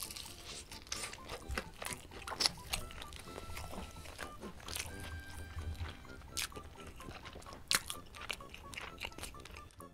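A person chewing a fried, breaded chicken tender close to the microphone: a bite, then steady chewing with many small crunchy, wet clicks. Faint background music runs underneath.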